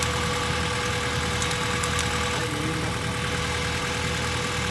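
Honda Civic four-cylinder engine idling steadily with its ignition timing just reset at the distributor, a thin steady whine over the low running sound.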